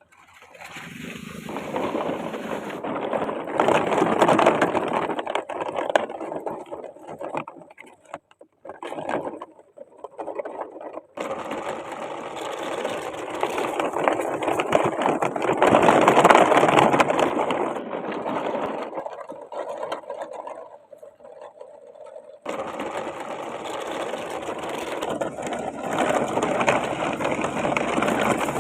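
Small electric motor of a toy vehicle whirring, swelling and fading in long stretches, with abrupt breaks where the sound cuts off and restarts.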